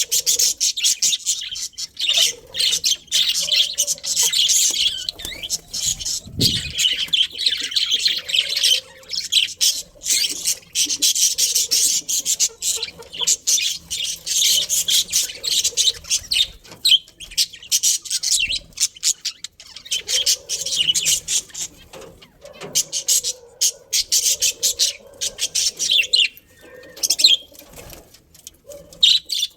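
Budgerigars chattering and chirping continuously, a dense stream of rapid short high-pitched calls from several birds.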